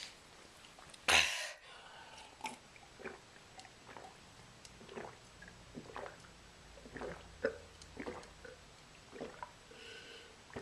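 Mouth sounds of someone chewing 100% cacao chocolate: soft, irregular wet clicks and smacks, with one short loud burst of noise about a second in.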